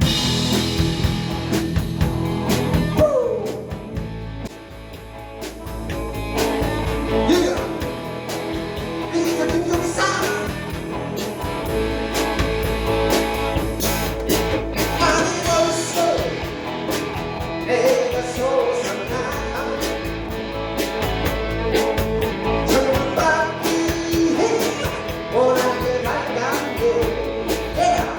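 Rock band playing live: drum kit and bass keeping a steady beat under electric guitars and a bending melodic lead line.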